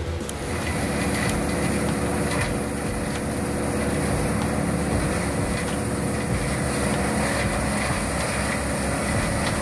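Wood chipper running: a steady engine-driven machine noise with a few faint knocks.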